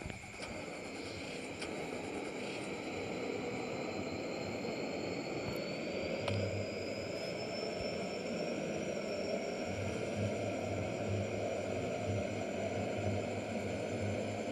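Truck running down the road with a steady rumble and a thin high whine that slowly rises in pitch as it gathers speed.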